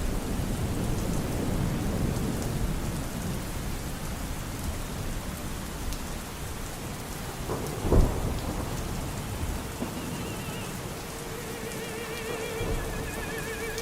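Steady heavy rain with low rolling thunder, and one sharper thunder crack about eight seconds in. Near the end, faint music comes in under the rain as wavering held tones.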